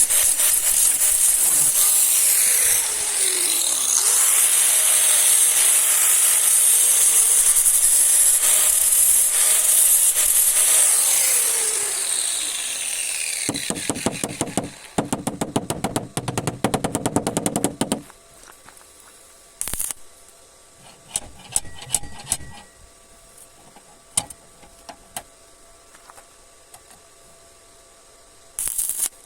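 A loud, steady hiss with sliding whines runs for about twelve seconds and fades away. Then a power tool rattles in rapid, even strokes for about four seconds, followed by scattered light clicks and knocks.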